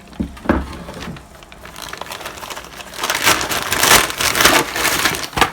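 Packaging rustling and crinkling as a parcel is opened by hand, with a few light knocks in the first second and steady crinkling in the second half.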